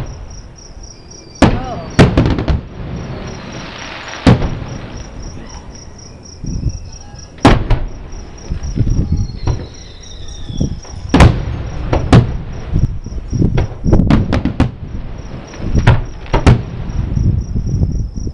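Aerial fireworks bursting, about a dozen bangs at irregular intervals, with a short falling whistle about ten seconds in. Crickets chirp steadily underneath.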